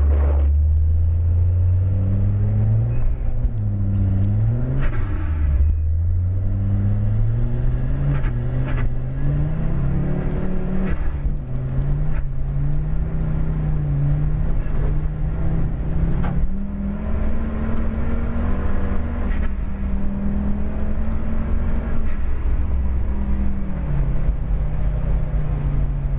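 An Audi's engine heard from inside the car while it is driven on a snowy road. The engine note climbs in pitch, drops back a few times in the first half as the gears change, and then holds higher and steady over a low road rumble.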